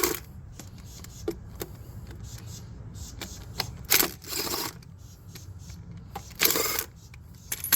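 An impact wrench runs in two short bursts, about four seconds in and again about six and a half seconds in, spinning a nut off, with a few clicks of metal between.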